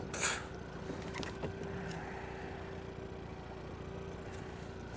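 Boat motor idling steadily, with a short hiss just after the start and a few light clicks about a second in.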